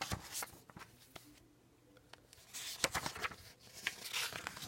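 Paper rustling with scattered small clicks and taps, as from handling the pages of a printed book. Two short stretches of rustle come in the second half.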